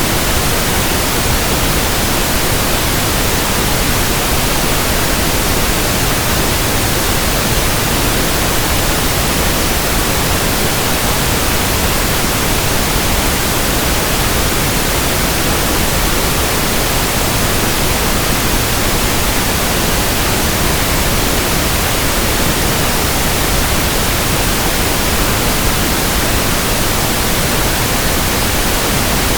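Steady synthetic pink noise: a loud, even hiss across the whole range, unchanging throughout.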